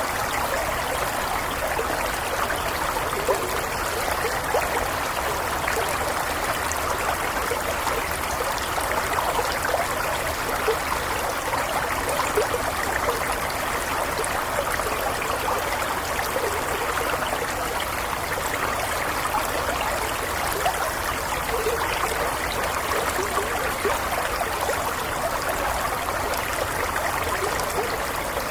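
Shallow stream flowing steadily, a continuous babble of water with small splashes and trickles over stones.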